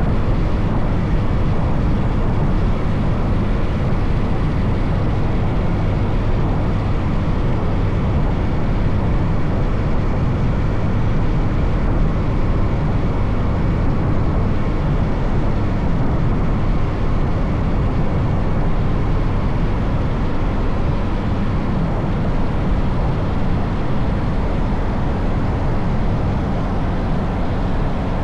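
A motorcycle riding at a steady cruise, heard from on the bike: a dense, steady low noise of engine and road, with no gear changes or sudden events.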